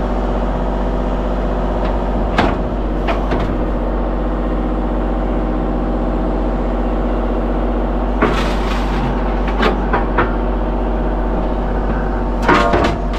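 Mini excavator's diesel engine running steadily, with a few sharp clunks and knocks over it.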